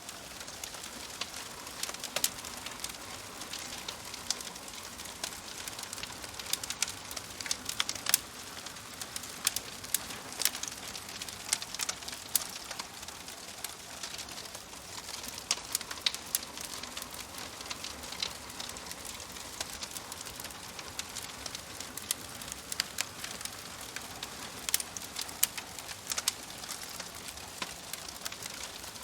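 Wood fire crackling in a fireplace: a steady soft hiss scattered with irregular sharp pops and snaps.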